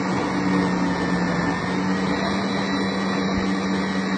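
Electric food processor with a fine grating disc running steadily, grating vegetables: an even motor hum under a constant whirring noise.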